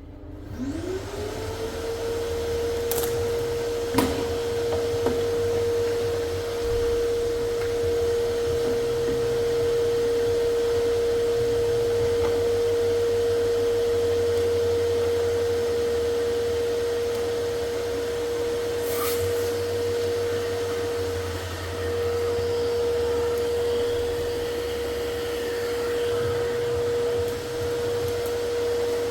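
An electric tool motor spins up over about the first second and a half, then runs at a steady pitch with a rush of air for the rest of the time. A few sharp clicks come around three to four seconds in.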